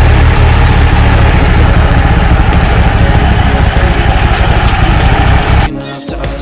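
Freshly rebuilt 2.0-litre turbocharged four-cylinder engine of a 1996 Eagle Talon TSi idling steadily, still warming up after its first start. The sound drops away sharply for about the last second.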